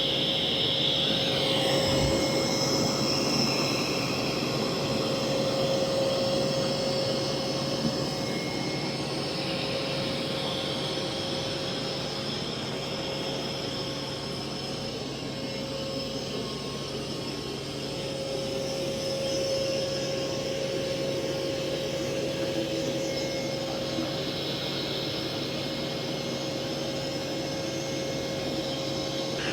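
Mova V50 robot vacuum running on carpet: a steady motor whir with a held tone over a hiss of suction, growing a little louder and softer as the robot moves about.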